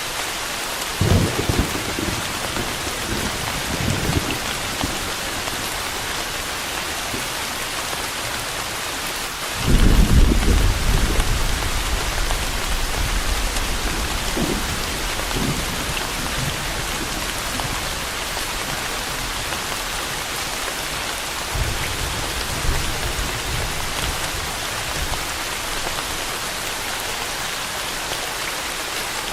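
Steady rain with rolling thunder. Short low rumbles come about a second in and around four seconds. A louder thunderclap about ten seconds in rolls on for several seconds, and a fainter rumble follows past twenty seconds.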